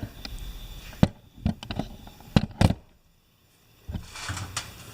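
A few light clicks and taps of small carburetor parts and tools being handled on a workbench, then a brief near-silent pause.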